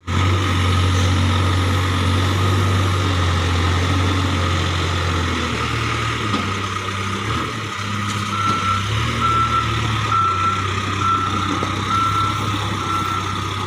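Diesel engine of heavy machinery running steadily, joined about halfway through by a reversing alarm beeping about once a second.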